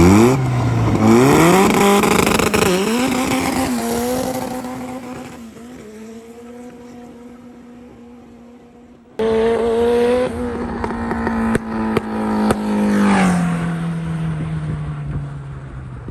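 Car engine accelerating hard in a drag run, its pitch climbing in steps through the gear changes, then holding steady and fading into the distance. About nine seconds in, an engine is suddenly loud and close, running at a steady pitch with a few sharp clicks, then dropping lower near the end.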